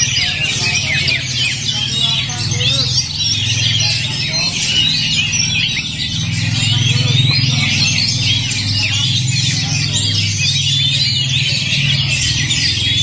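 Oriental magpie-robins singing hard at once. Their rapid chirps, whistles and trills overlap in a dense, unbroken stream over a steady low hum.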